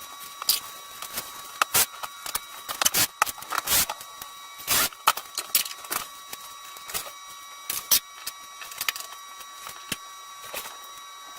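Irregular light clicks and knocks of hard objects being handled, coming in quick clusters, over a faint steady high-pitched tone.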